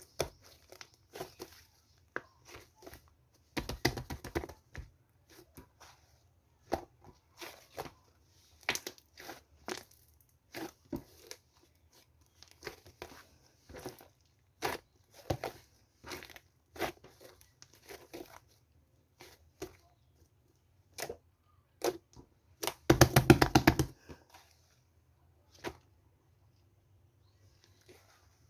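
Crinkly material being handled in short, irregular rustles and crinkles, with one louder tearing sound lasting about a second near the end.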